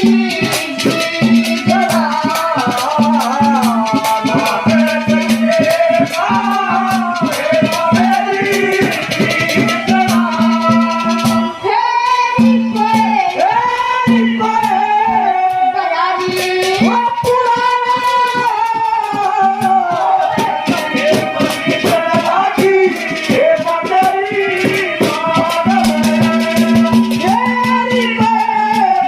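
A boy singing a Haryanvi ragni folk song with a live accompaniment of a held low drone note and fast rattling folk percussion.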